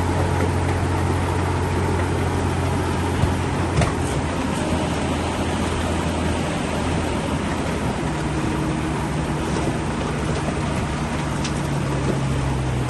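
Heavy diesel construction machinery running under load, a steady low engine drone over a rough rumble, with the engine note changing to a higher pitch about eight seconds in. A few sharp knocks come about four seconds in.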